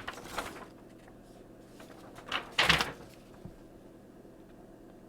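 Plastic Transformers action figure being handled and manipulated, with light clicks and rustles and one louder knock about two and a half seconds in.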